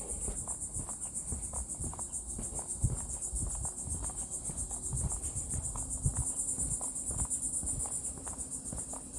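Insects trilling steadily in a continuous high-pitched, finely pulsing chorus, with scattered low thuds underneath.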